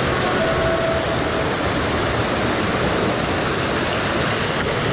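Steady rushing of fast-flowing rain runoff in a stream crossing, churned up as a fat bike wades through the deep water.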